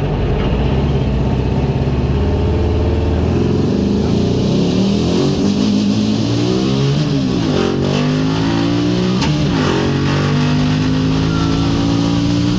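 Buggy engine running under load while driving, its pitch holding steady, then falling and rising several times through the middle as it slows and speeds up again.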